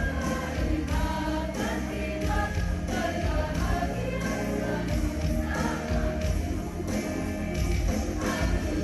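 A choir singing with instrumental accompaniment that keeps a steady beat.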